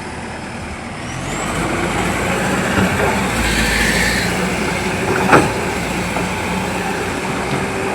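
A heavy diesel vehicle's engine running, growing louder about a second in and easing off again after the middle, with a short hiss and a single sharp click about five seconds in.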